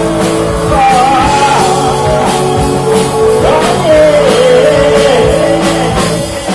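Live rock band playing: drums keep a steady beat under bass and guitars while a lead line bends and slides in pitch above them.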